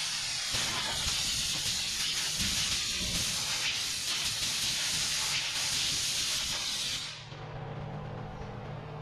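A steady spraying hiss that cuts off about seven seconds in, with a faint low hum underneath.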